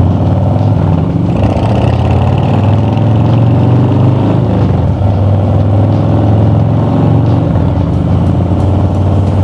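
Harley-Davidson motorcycle's V-twin engine running steadily while riding, a loud low throb with no break.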